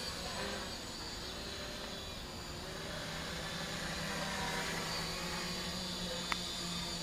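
Electric motors and propellers of a radio-controlled tricopter in flight: a steady buzzing hum whose pitch drifts slightly with the throttle, over wind noise. A single sharp click comes about six seconds in.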